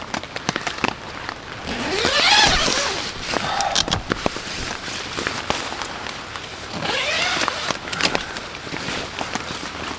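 Raindrops pattering on a nylon tent fly in a quick, irregular run of close clicks. Two longer swishing rustles, about two and seven seconds in, come from the camper's plastic rain poncho and the tent fabric as he moves.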